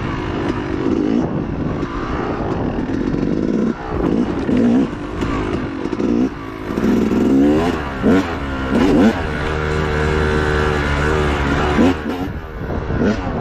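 Dirt bike engine under hard riding, its revs repeatedly rising and falling with the throttle, then held steady for a couple of seconds near the end.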